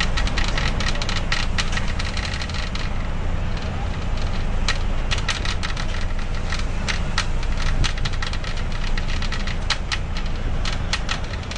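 Strong wind buffeting the microphone: a loud, steady low rumble, with many sharp crackles and clicks throughout.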